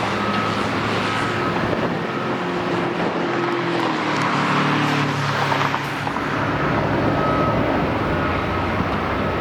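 Road traffic: vehicle engines running and passing, one engine's pitch sliding down midway, with a faint high beep repeating about once a second.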